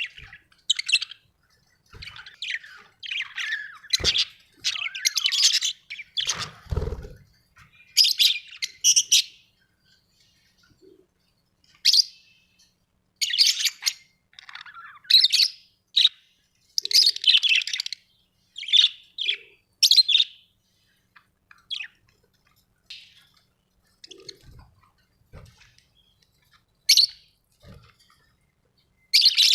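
Budgerigars chirping and chattering in short, irregular bursts of high chirps with pauses between. There is a sharp low thump about four seconds in and a brief low rumble shortly after.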